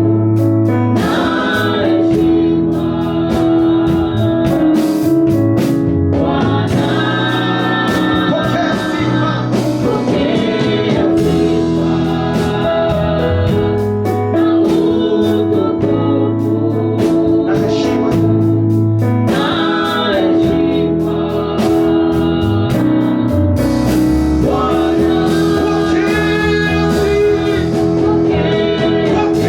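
Gospel praise-and-worship music: a band with keyboard or organ chords, bass and a steady beat, with singing over it.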